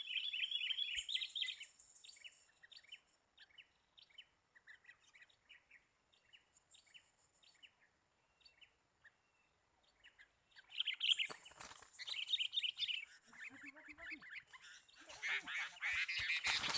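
Sooty-headed bulbuls calling with short chirping notes: a busy cluster at the start, sparse single chirps in the middle, and livelier calling again from about eleven seconds in, ending in a louder, rougher flurry near the end.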